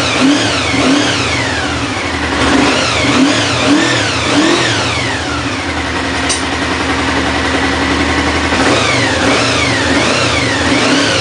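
A 1992 Honda VFR750F's 748 cc V4 engine, just started for the first time after a restoration, revved up and down with quick throttle blips about twice a second, settling to a steadier run in the middle and blipped again near the end.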